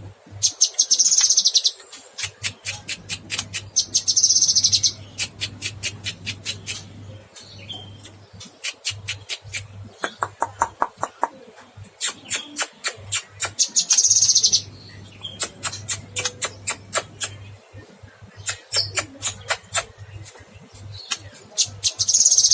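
Cucak kinoy bird singing without pause: rapid strings of sharp chattering notes, several a second, broken a few times by buzzy high trills about a second long.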